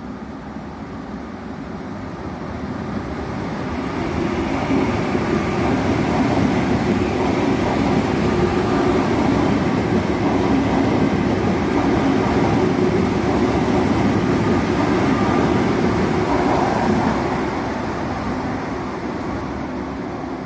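Frecciarossa 1000 high-speed train passing through the station at speed, a rushing rumble of wheels on rails. It builds over the first few seconds, holds steady and loud for about twelve seconds, then falls away near the end as the train leaves.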